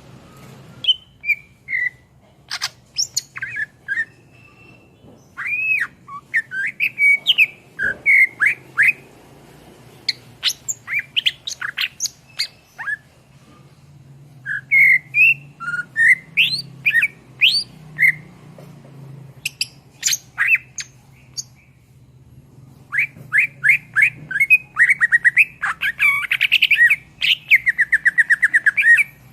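Green leafbird (cucak ijo) singing a loud, varied song of short whistled notes and sweeping chirps in phrases with brief pauses. Near the end it breaks into fast runs of rapidly repeated notes.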